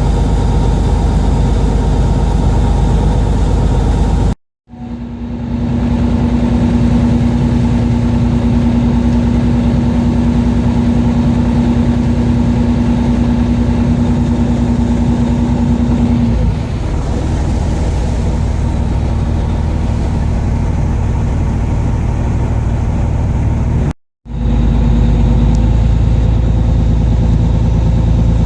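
Fishing boat's engine running steadily, a continuous low rumble that cuts out abruptly twice for a split second.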